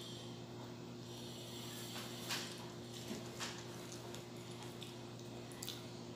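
Close-up eating sounds of someone biting and chewing banana cue, caramelized fried banana on a skewer: soft wet mouth clicks, with a few sharper ones about two and three and a half seconds in. A steady low hum runs underneath.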